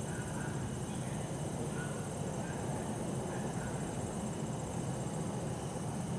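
Bell crickets (suzumushi) trilling steadily in high ringing tones over the low, even hum of distant city traffic.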